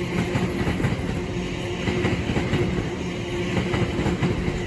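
Class 345 electric multiple unit pulling out of the station: a steady low hum over a rough rumble of the train on the track.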